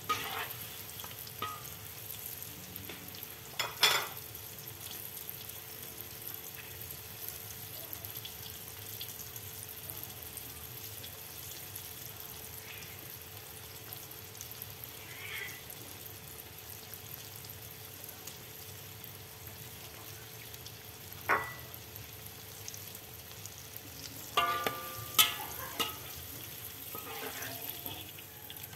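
Batter-coated broccoli florets deep-frying in hot oil in a wok, a steady sizzle. A few metal clinks of a ladle against the wok, with a cluster of them near the end as fried pieces are lifted out.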